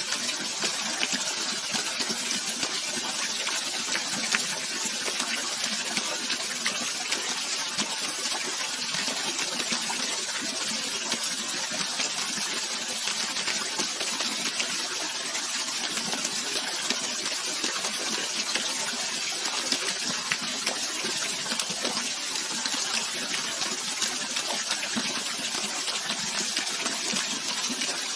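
Running water splashing steadily: an even, bright rush with little low rumble.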